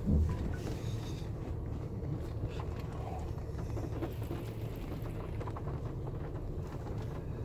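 Car idling, a steady low hum heard from inside the cabin, with a few faint ticks.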